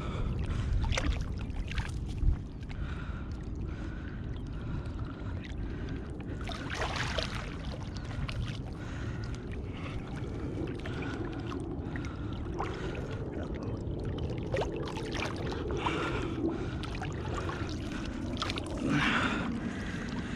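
Wind rumbling on the microphone, with scattered clicks and two louder rushing bursts, one about seven seconds in and one near the end.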